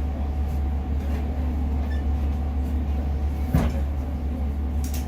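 Class 150 diesel multiple unit's Cummins diesel engine running, a steady low drone heard inside the carriage. A single clunk about three and a half seconds in.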